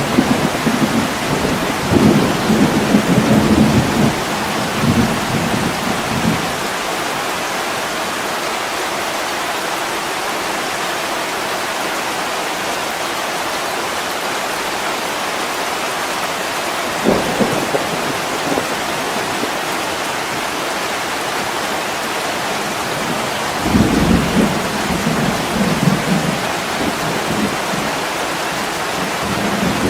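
Heavy rain on a window, falling steadily, with low rolls of thunder during the first six seconds and again from about 24 seconds in, and a brief rumble near 17 seconds.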